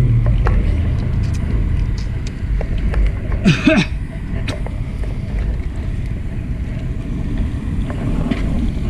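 Wind buffeting the action camera's microphone and road rumble while riding a fixed-gear bike, with scattered light clicks and a brief louder burst of noise about three and a half seconds in.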